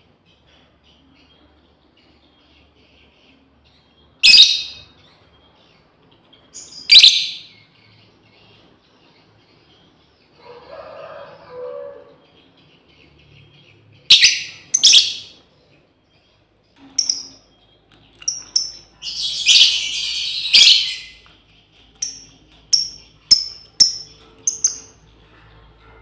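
Female lovebird calling to its companions: loud, sharp shrieks about four and seven seconds in and again around fourteen seconds, a longer harsh burst around twenty seconds, then a quick run of short chirps near the end. A softer, lower sound comes in around eleven seconds.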